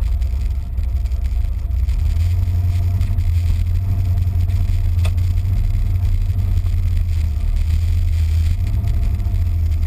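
Turbocharged 408 LSX V8 in a 2002 Chevrolet S-10 pickup, heard from inside the cab as a steady low engine rumble at light throttle, with no hard acceleration. It gets a little louder about two seconds in.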